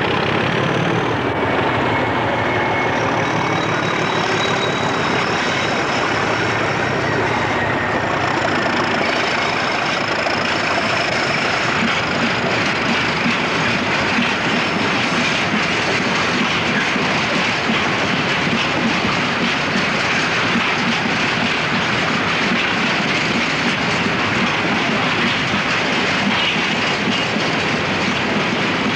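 A diesel-hauled freight train passing close by: the locomotive goes by at the start, then a long rake of open box wagons rolls past with a steady rumble of wheels on the rails. A thin high whine is heard over the first ten seconds or so.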